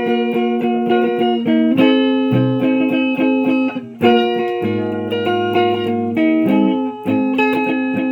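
Electric guitar playing ringing chords, a new chord struck about every two seconds, with a wavering low note in the middle.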